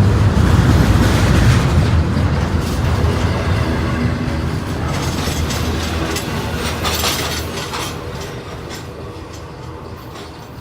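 Norfolk Southern train's cars rolling past, a heavy rumble with wheels clicking over rail joints in the middle, fading steadily away toward the end.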